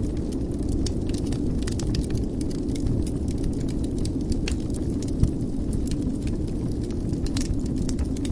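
Wood fire in a fireplace crackling, scattered sharp pops over a steady low rumble of the flames, with one louder pop about five seconds in.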